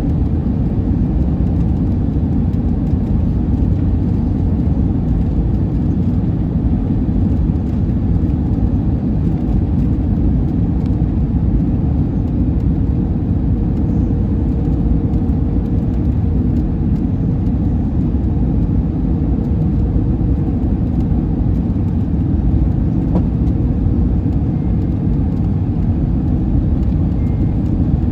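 Steady low rumble of an Airbus A321neo airliner heard from inside the passenger cabin: engine and airflow noise running evenly, with no bumps or changes.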